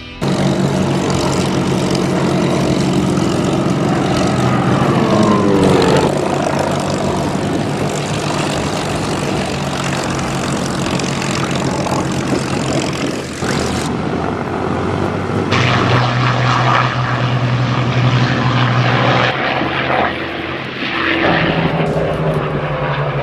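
Supermarine Spitfires' V12 piston engines running as the fighters fly past, the pitch falling as one passes about five seconds in. The sound changes abruptly several times.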